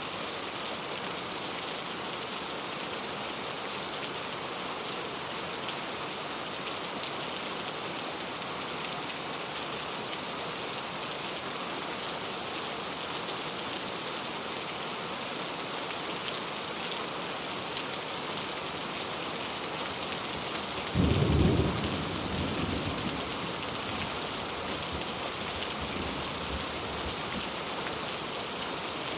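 Steady rain falling. About two-thirds of the way through, a sudden clap of thunder is followed by a low rumble that fades over a few seconds.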